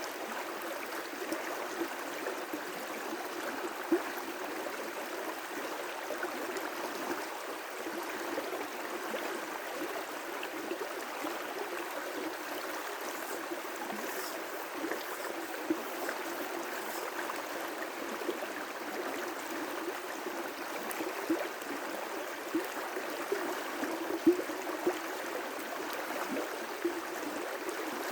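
River rapids: water rushing and gurgling over rocks in a steady, continuous wash, with small splashes popping up now and then.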